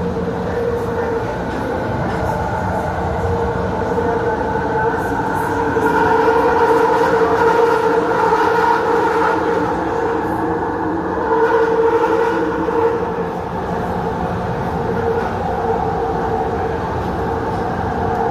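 JFK AirTrain car running at speed between stations: a steady multi-tone motor whine over rumbling wheels and track noise. It swells a little about six seconds in and again around twelve seconds.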